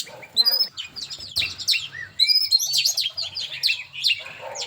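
Songbird singing a rapid, varied string of short chirps and whistles, with quick rising and falling notes and brief pauses.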